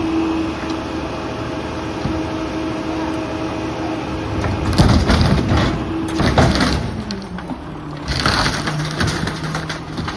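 PakMor garbage truck's packer compacting curbside flood debris: wood cracking and splintering under the blade over a steady hydraulic whine. The whine drops in pitch about two-thirds of the way through, followed by a burst of hiss.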